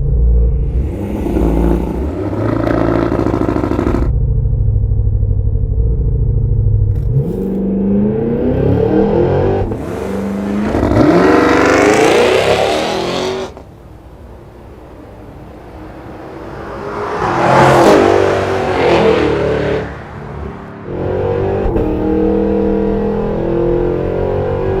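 2023 Cadillac Escalade V's hand-built 6.2-litre supercharged V8 accelerating hard, its exhaust note rising in pitch and breaking at each upshift. Two full-throttle runs, the first cutting off suddenly about 13 seconds in, then a steady rumble near the end.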